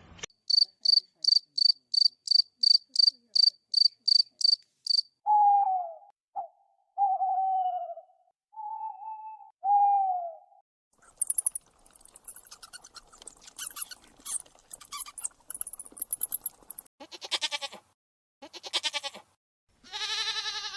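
A run of different animal calls one after another: first a rapid, regular pulsing chirp about three times a second, then a few short whistled notes, most of them falling in pitch, then chattering and loud squawking calls.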